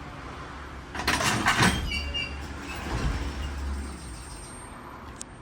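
Railway train noise: a sudden short burst of clattering about a second in, followed by a low rumble that dies away, and a single sharp click near the end.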